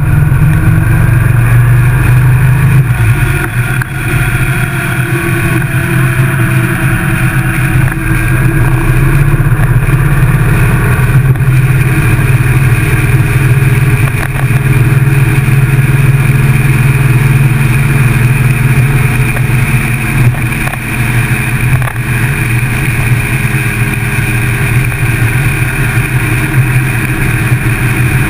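Motorcycle engine running steadily at road speed, a continuous loud drone with only small dips in level.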